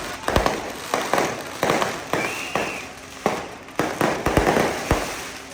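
Firecrackers going off in irregular loud bangs, sometimes several a second, with a short whistling tone about two seconds in.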